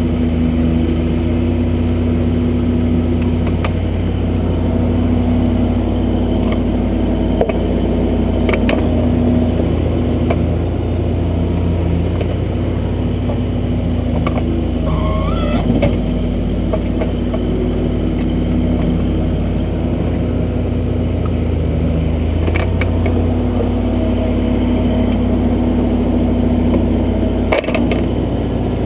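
Kubota backhoe's diesel engine running steadily during digging, with a few short knocks or clanks spread through the stretch.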